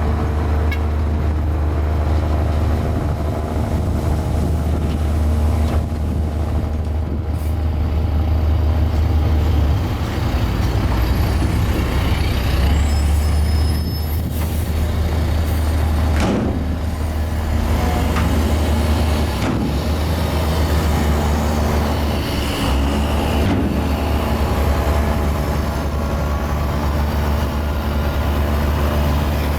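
Mini Komatsu bulldozer's diesel engine running steadily under working load, its low note dipping and picking up again several times as the blade load changes. A few faint high squeaks come a little before halfway.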